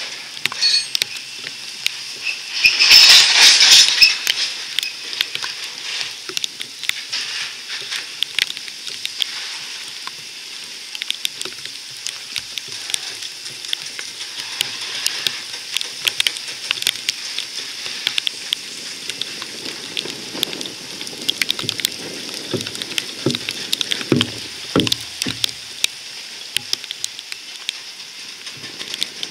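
Covered hopper cars of a freight train rolling past: a steady wheel-on-rail hiss with rapid clicks and knocks from the wheels and rail joints. A louder rushing burst comes about three seconds in, and low knocks grow more frequent near the end.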